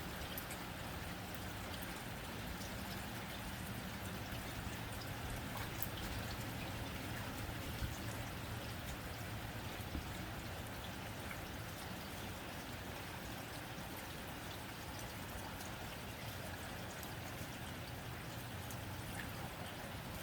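Steady rain falling on a tin roof, an even patter with scattered small drop ticks.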